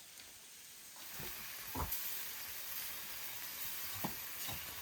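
A steady sizzling hiss from a hot tandoor that sets in about a second in, with a few soft knocks.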